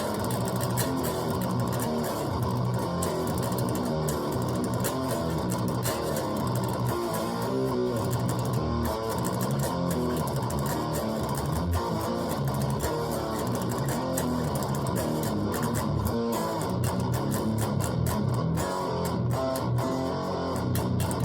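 Guitar being played without a break: a steady stream of plucked notes, loosely picked and changing often.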